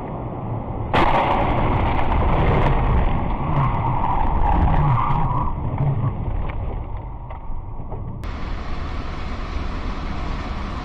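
Car driving noise: a steady rumble of engine and tyres, turning suddenly louder and harsher about a second in, with sharp knocks over the top.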